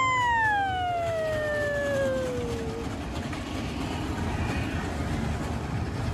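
An emergency-vehicle siren winding down, its pitch falling slowly for about three seconds until it dies away, leaving a steady low rumble.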